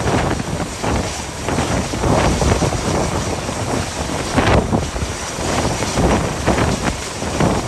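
Gale-force wind buffeting the microphone in irregular gusts, a loud rushing noise that swells and eases every second or so.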